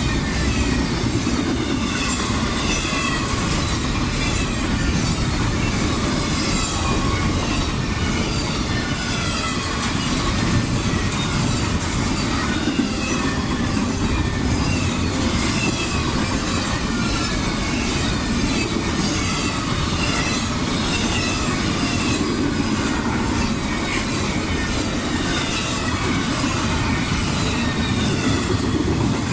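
Freight train passing close at speed: a steady rumble and clatter of wheels on rail, with many short high squeals from the wheels running through it.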